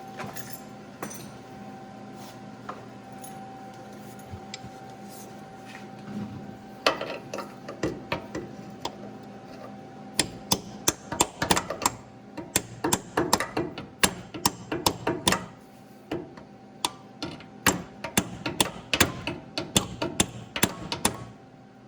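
A hammer striking metal at a broken exhaust manifold stud, in quick, uneven runs of sharp taps. The taps begin about a third of the way in and come thick through the rest.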